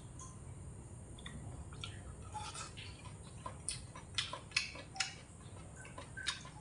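A person chewing fried pork spare ribs close to the microphone, with a run of short wet mouth clicks and smacks around the middle, over a faint steady low hum.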